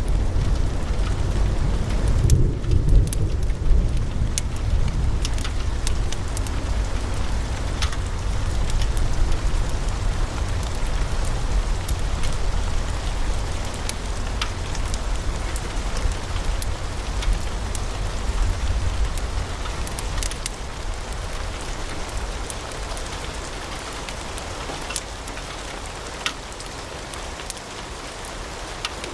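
Wood fire in a fireplace crackling: scattered sharp pops and snaps over a steady low rumble of the flames, growing slightly quieter toward the end.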